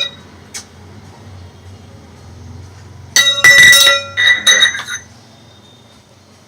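Bell-like ringing clinks: a hard, ringing object struck several times in quick succession from about three seconds in to about five seconds, each strike ringing briefly.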